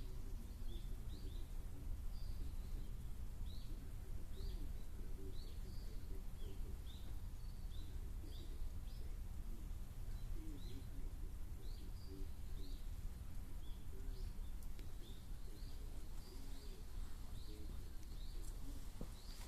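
Small birds calling with short, high chirps repeated throughout, about one or two a second, over a steady low background rumble.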